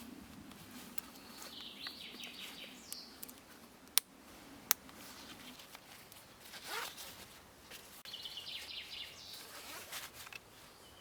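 Faint rasping and rustling handling sounds, like a zipper or gear being moved, with two sharp clicks a little under a second apart about four seconds in.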